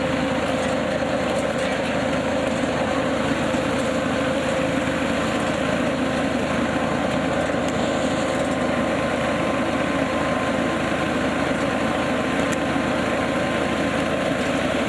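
KF-501 hazelnut harvesting machine running steadily behind its tractor, the tractor engine and machine together making an even drone with a constant hum.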